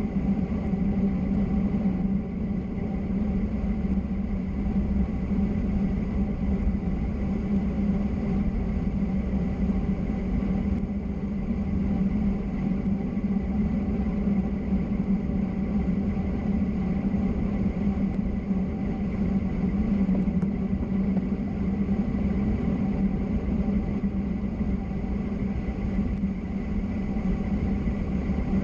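Steady vehicle running noise in motion: a constant hum over a low road-and-wind rumble, unchanging throughout.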